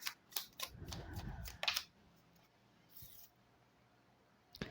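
Tarot cards being handled: a few sharp clicks and a short rustle about a second in, then near silence with a single click near the end.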